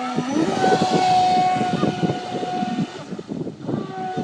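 Battery-powered RC model boat's motor whining as it runs fast, over water rushing and splashing around the hull. The whine rises in pitch as the boat speeds up, eases off about three seconds in, and picks up again near the end.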